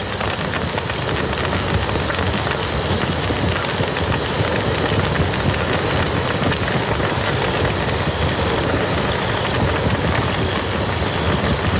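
Campfire crackling with many small sharp pops over the steady rushing of a river.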